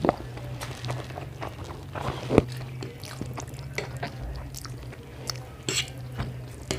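People chewing and biting into a mouthful of Maggi instant noodles, with scattered short smacks and clicks, the sharpest a knock about two and a half seconds in. A steady low hum runs underneath.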